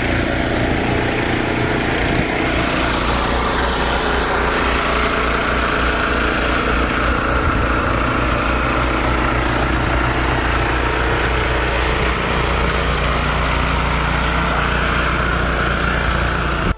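Petrol snowblower engine running steadily as it clears snow.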